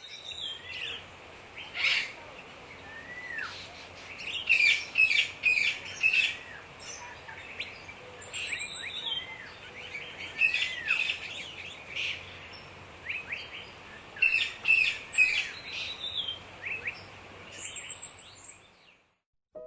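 Several wild birds chirping and singing: many short, quick chirps and whistles overlapping, some sliding up or down, over a faint background hiss, fading out near the end.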